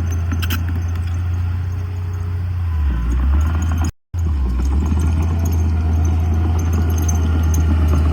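Heavy diesel engine of earthmoving machinery running steadily with a low drone. The sound drops out completely for a fraction of a second about four seconds in.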